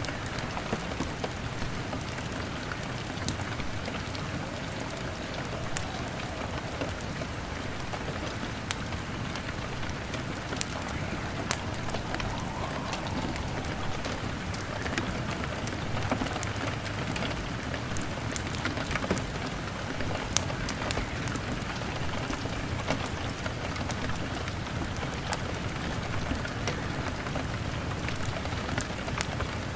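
Heavy rain on a window pane, a steady hiss, mixed with frequent sharp crackles and pops from a burning log fire.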